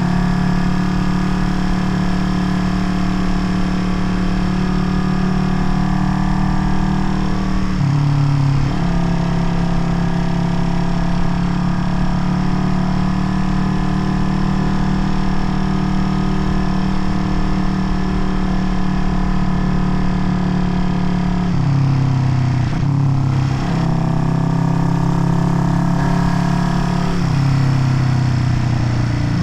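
Vintage Honda CB parallel-twin motorcycle engine running under way at a steady pitch. The engine note drops and settles briefly about eight seconds in and twice more near the end, as with gear changes.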